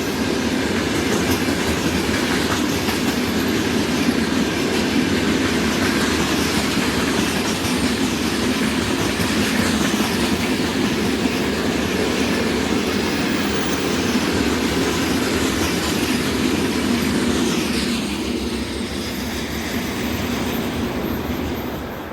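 Freight train wagons rolling past: a steady rumble with wheel clatter and faint wheel squeals, easing off near the end.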